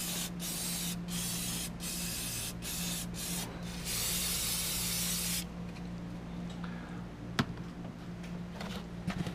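Cleaner sprayed from an aerosol can in a run of long bursts with brief breaks, then one longer blast that cuts off about five and a half seconds in; a steady low hum runs underneath, and a few light clicks follow.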